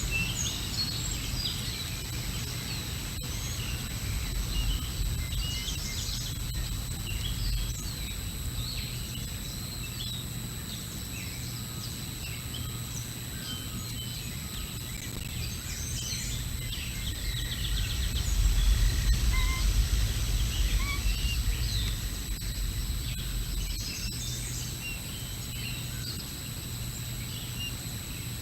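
Small songbirds chirping and calling in quick, scattered notes over a low wind rumble that grows louder for a few seconds past the middle. A faint steady high whine from the microphone runs beneath.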